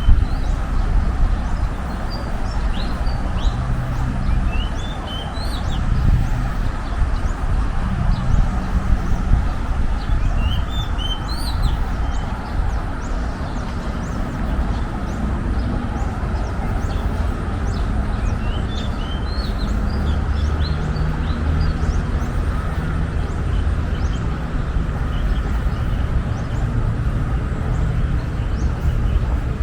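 Park birds chirping in short clusters of quick rising and falling notes several times, over a steady low background rumble.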